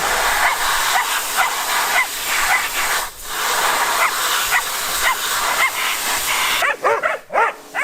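Steady hiss of water spraying as the bike is washed, cutting off suddenly near the end, with a dog yapping repeatedly over it.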